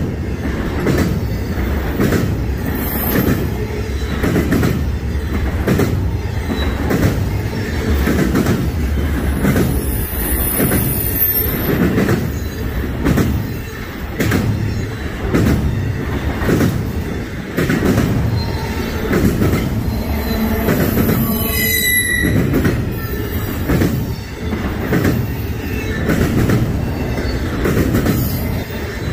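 Freight train cars rolling past, wheels clicking in an even rhythm over the rail joints above a steady low rumble. Brief high-pitched wheel squeals come about ten seconds in and again about twenty-one seconds in.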